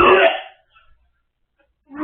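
A teenage boy gagging: a loud, strained retch that fades out about half a second in, followed by another short gag near the end. It is the gag reflex set off by the smell of rotting leftovers.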